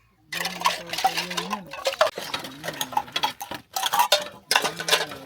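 Dishes and cutlery clattering, with many sharp clinks, over a person's voice.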